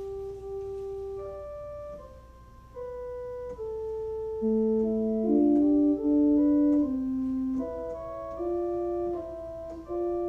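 Organ playing a slow melody in held notes; each note sounds at an even level and starts and stops abruptly, with several notes overlapping at times.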